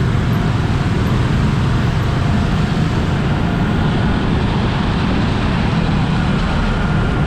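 Steady road traffic and vehicle noise with a heavy low rumble throughout.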